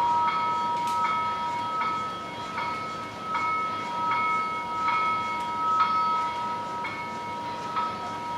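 Locomotive bell ringing steadily on an HO-scale model steam train's sound system, a stroke about every three-quarters of a second.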